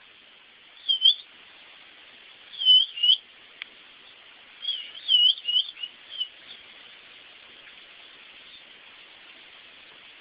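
Pet bird giving short looping whistled chirps in three bursts: about a second in, around three seconds in, and a longer run of five or six notes from about four and a half to six and a half seconds. A single sharp click falls between the second and third bursts.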